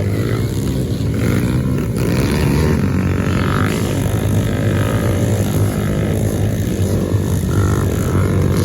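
Several small 110cc quad (ATV) engines running at once in a race, a steady, overlapping drone of engines at varying pitch.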